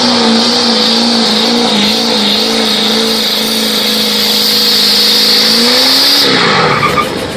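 Four-wheel-drive pickup truck's engine held at high revs while pulling a weighted sled, with a steady hiss from the spinning tires. The engine note wavers at first, holds steady, climbs a little, then drops sharply about six seconds in as the driver comes off the throttle.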